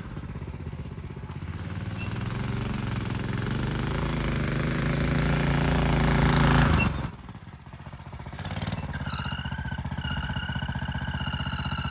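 Honda GX390 single-cylinder engine on a minibike running and growing steadily louder as it approaches. The sound drops away sharply about seven and a half seconds in. About a second later it returns as a steady idle.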